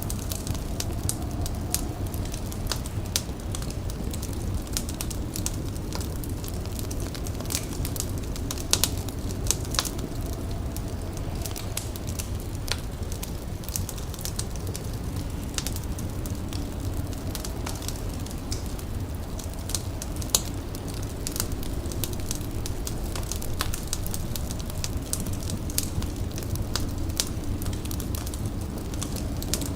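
Wood fire crackling, with irregular sharp pops and snaps scattered throughout over a steady low rumble.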